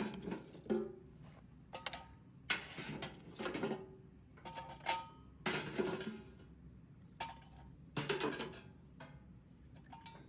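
Repeated clinking and clattering of handled cookware and utensils, a dozen or so separate knocks, some leaving a short metallic ring.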